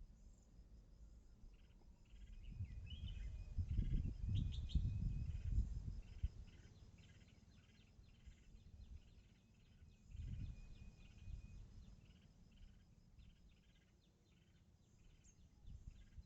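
Birds chirping and calling in short repeated notes, over low rumbling buffets that are loudest from about two and a half to six seconds in and again around ten seconds.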